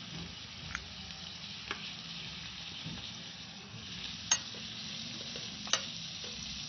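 Potatoes, onion and tomatoes frying in oil with ground spices just added, sizzling steadily while they are stirred. The spoon clicks against the pan a few times, loudest about four seconds in.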